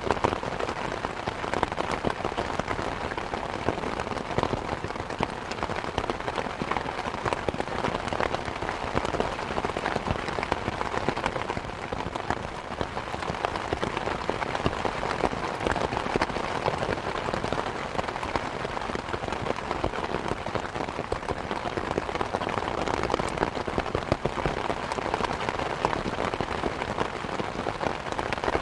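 Steady rain mixed with a crackling fireplace fire: a dense, even run of small pops and ticks over a constant hiss, with no single loud event.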